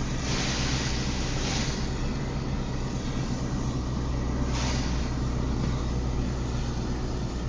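Car interior while driving in the rain: a steady low engine and tyre drone on wet road, with a few short swishes about a second in and near the middle.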